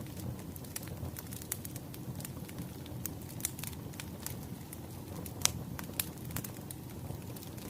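Wood fire crackling: a steady low rumble of burning logs with sharp pops and snaps scattered irregularly, the loudest pop about five and a half seconds in.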